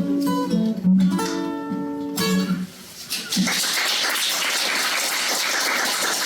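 Acoustic guitar playing the last plucked notes of a song, which stop under three seconds in; then a steady clatter of audience applause.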